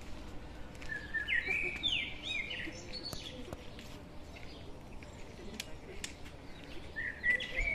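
A songbird singing: a quick phrase of bright whistled notes jumping up and down in pitch about a second in, and another phrase near the end, over faint outdoor background noise.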